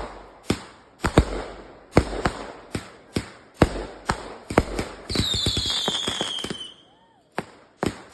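Consumer fireworks going off: a rapid, irregular string of sharp bangs, about two a second, with a high whistle from about five seconds in, falling slightly in pitch and fading out near seven seconds.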